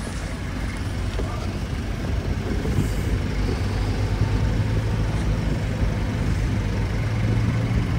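Car engine idling close by, a steady low hum that grows stronger about halfway through.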